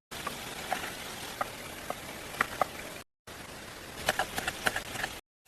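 Steady rain-like hiss with scattered sharp taps and knocks, which come thicker in the second half; the sound drops out completely twice, in the middle and just before the end.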